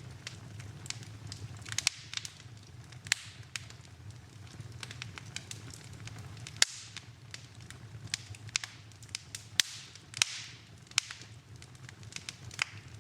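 Wood fire crackling in a fireplace: irregular snaps and pops over a steady low background, with the sharpest pop about six and a half seconds in.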